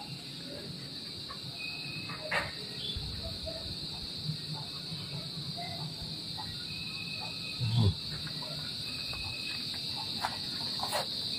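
A cricket trilling in one steady high-pitched note, with faint short chirps around it and a low bump about eight seconds in.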